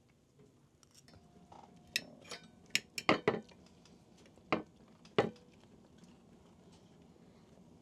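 Dishes and cutlery clinking and knocking: a string of short sharp clinks, loudest around three seconds in, with two more about a second apart near the five-second mark.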